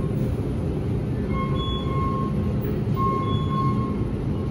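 Train running with a steady low rumble. Short high-pitched tones sound in pairs, about a second and a half apart.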